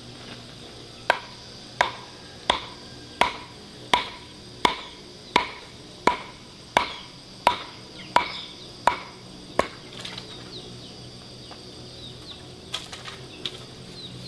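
Thirteen evenly spaced sharp, ringing blows, about one every 0.7 seconds, stopping about ten seconds in, with two lighter knocks near the end. A steady high insect drone runs underneath.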